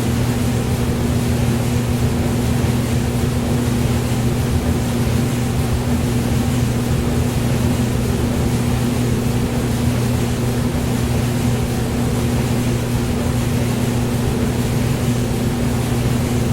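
Hair dryer running steadily: an even rush of blown air over a low, constant motor hum.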